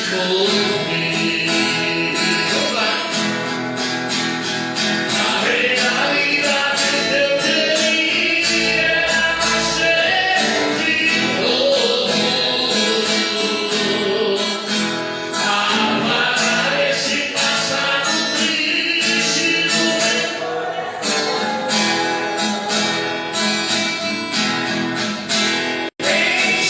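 Gospel worship song: group singing over strummed guitar with a steady beat. The sound drops out for an instant near the end.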